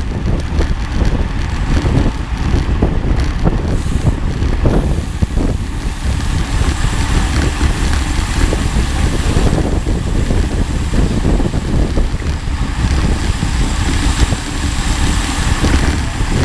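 Steady low rumble with wind buffeting the microphone, the kind of sound heard while moving along in or on a vehicle.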